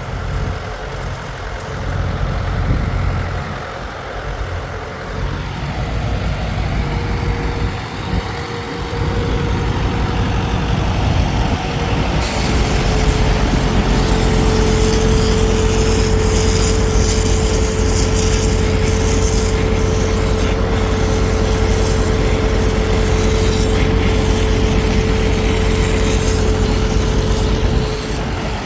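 A heavy engine running steadily. About halfway through, a steady whine with a hiss over it comes in louder and keeps on, then cuts off near the end.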